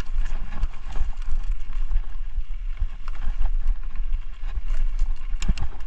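Mountain bike ridden over a dirt trail, heard from a chest-mounted action camera: steady wind rumble on the microphone with irregular knocks and rattles from the bike over bumps.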